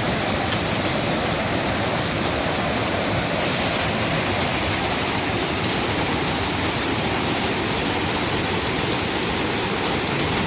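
Steady rush of fast-flowing water from a mountain creek, a continuous even roar with no let-up.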